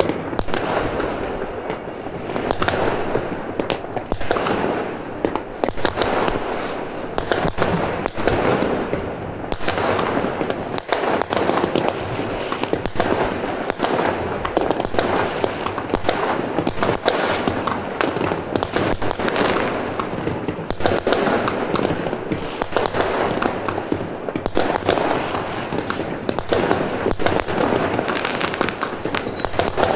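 City-wide barrage of fireworks and firecrackers, with many bangs and crackles overlapping and no pause between them.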